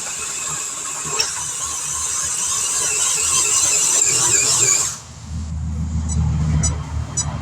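RC pulling truck's electric motor and geared drivetrain whining under load as it pulls a weighted sled, then cutting off suddenly about five seconds in. A low rumble follows.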